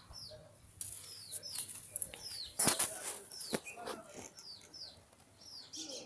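A small bird calling over and over, a short high chirp that falls in pitch, about twice a second. A couple of sharp knocks or clicks stand out about halfway through.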